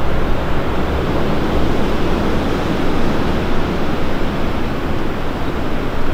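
TransPennine Express Class 185 diesel multiple unit approaching over the junction: a steady, even rumble of engine and wheels on rail, with no distinct tones or knocks.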